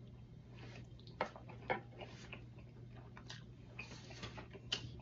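A person chewing a mouthful of breaded chicken: faint, irregular mouth clicks and smacks over a steady low hum.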